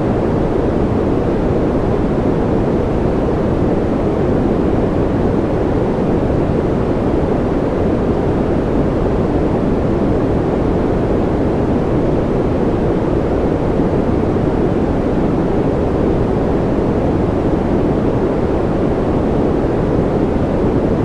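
Steady, unchanging white noise, with most of its energy low down so it sounds deep rather than hissy.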